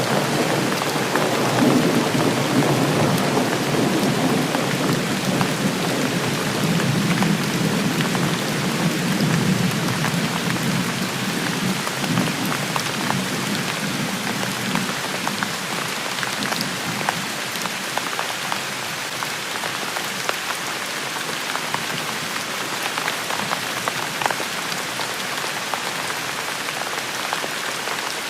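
Steady rain falling on hard surfaces, with a low rumble of distant thunder rolling in at the start and fading away over the first half.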